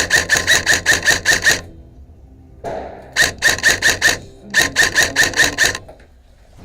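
Airsoft gun firing three rapid strings of shots, about six a second, with short pauses between the strings.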